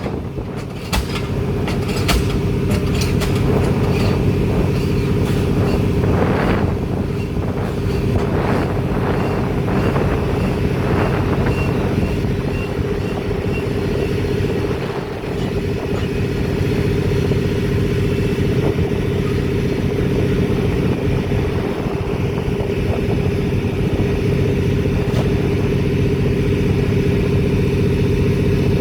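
A pile-driving rig's diesel engine running steadily, with a few sharp metallic knocks in the first couple of seconds and hissing surges between about six and eleven seconds in.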